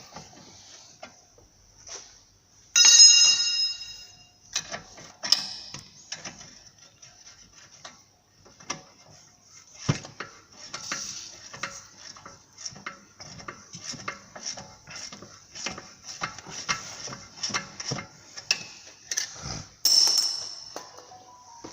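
Hand tools clinking and knocking on the metal of a car's front suspension arm bolts, in irregular taps. About three seconds in comes a louder ringing clang, and near the end a short hiss.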